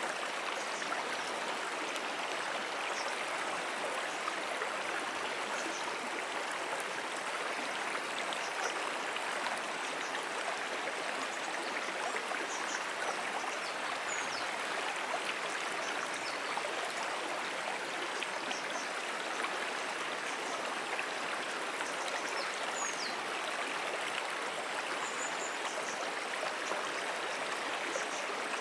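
Water of a small perennial brook flowing, a steady, even rush with no break or change. A few faint, short, high chirps sound now and then above it.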